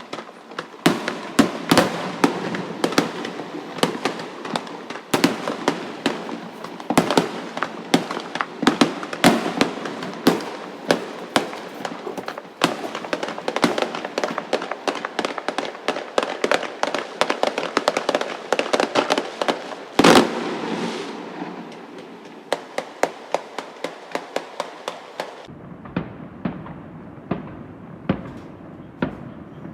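Aerial fireworks bursting over the sea: a rapid, dense string of bangs and crackles, several a second, with one especially loud bang about two-thirds of the way in, thinning to scattered pops near the end.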